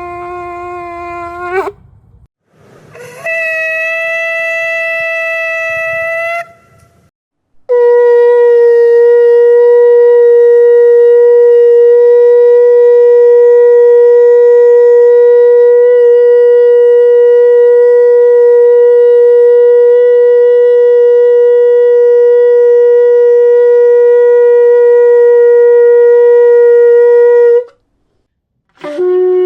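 Shofar blasts at different pitches, separated by short silences: one ends with an upward flick about a second and a half in, a higher blast follows for about three seconds, then one long steady blast is held for about twenty seconds, and another begins near the end.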